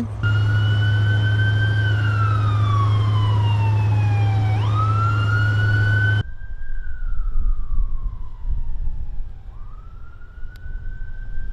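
Ambulance siren wailing: its pitch falls slowly and then sweeps quickly back up, twice. For the first half a steady low hum lies under it; about six seconds in the sound drops abruptly and the siren goes on more faintly.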